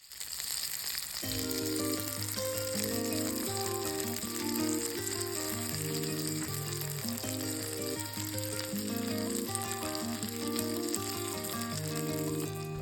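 Steak frying with a steady sizzle, and background music coming in about a second in.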